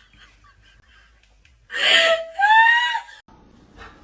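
A loud shriek about two seconds in: a harsh rasp, then a high cry that rises in pitch and holds for about a second before cutting off.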